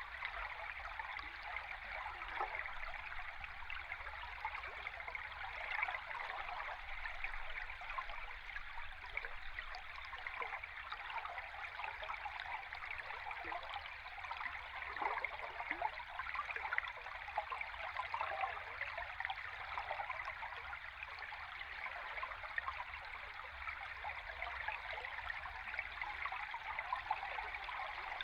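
Flowing stream water heard underwater: a steady, even rush with a faint low rumble beneath it.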